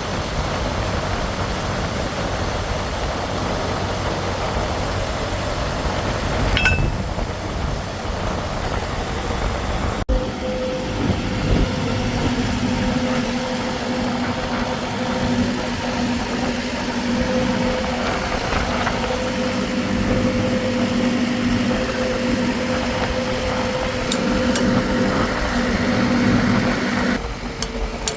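An engine running steadily. About ten seconds in, the sound changes abruptly from a rough, noisy hum to a steadier hum with a clear pitch.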